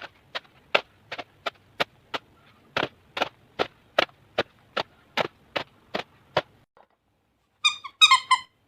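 Sharp clicks at an even pace, about two and a half a second, stopping about six and a half seconds in. Near the end, a short high warbling tone sounds twice.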